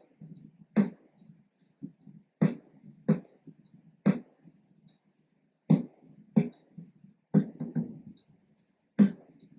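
Programmed hip-hop drum loop from Logic Pro X's drum kit playing back at a slow tempo: a loud snare hit about every one and a half seconds, with softer ghost-note snares and hi-hat ticks in between.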